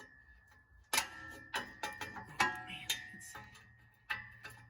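Steel tools knocking against the exhaust pipe while a socket is worked onto the rusted flange bolts: sharp metallic knocks, about five at uneven spacing, each leaving a short ringing note.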